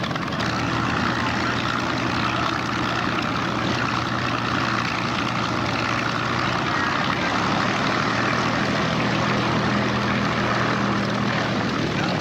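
Piston engine of a propeller aircraft running steadily, a continuous engine hum with a slightly higher tone joining for a few seconds near the end.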